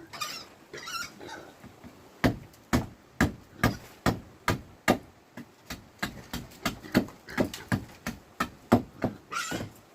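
A few short animal calls, then a steady run of sharp strikes of a tool on wood or bamboo, about two to three a second, with another brief call near the end.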